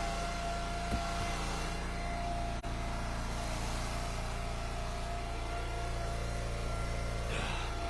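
Engine of an Eastonmade Ultra hydraulic wood splitter running steadily, with a light knock about a second in.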